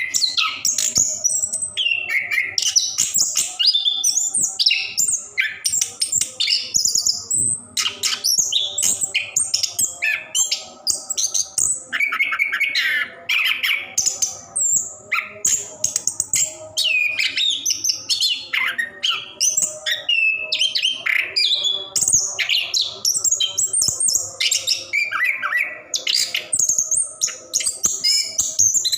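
Chestnut-capped thrush (anis kembang) in full song, a long unbroken run of quick, varied high whistles and chirps with almost no pauses.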